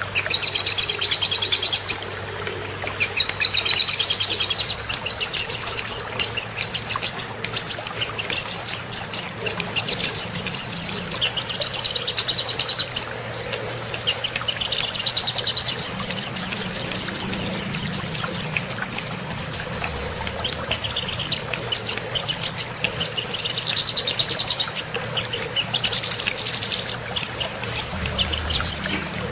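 A small songbird singing long runs of rapid, high, chattering trills, broken by a few short pauses: a recorded tutor song (masteran) played to teach cage birds.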